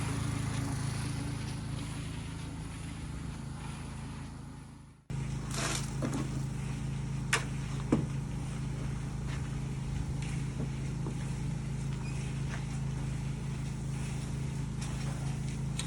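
Small engine running steadily with an even hum. About five seconds in it fades and cuts out, then comes straight back, with a few sharp knocks and scrapes over the next few seconds.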